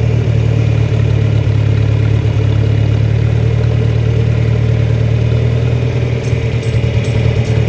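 John Deere 3010 tractor engine running steadily at a low, even drone, with a few faint clicks near the end.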